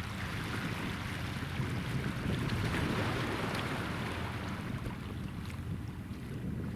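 Wind rumbling on the microphone over a steady hiss of water, the hiss swelling about halfway through and then easing.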